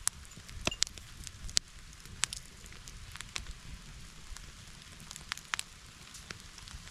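Campfire crackling, with irregular sharp pops, several of them loud, over a low steady rumble.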